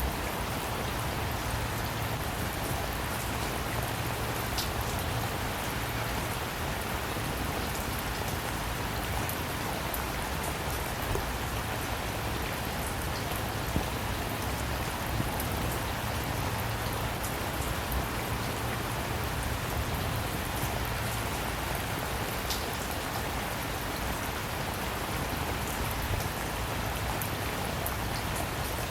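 Steady rain falling, a dense even hiss with scattered individual drops ticking on a surface, over a constant low rumble.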